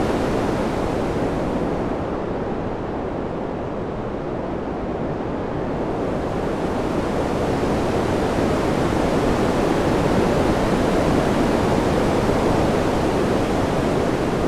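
Wind: a steady, dull rushing noise that eases and thins out a couple of seconds in, then swells back up.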